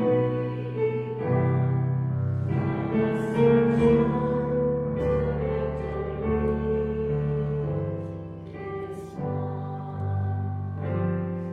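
Slow hymn music on a church keyboard, sustained chords changing every second or two.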